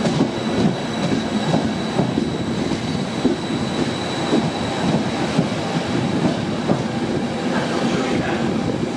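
A train running through the station at close range, its wheels clattering in frequent irregular knocks over a steady rumble, with a thin high tone held throughout.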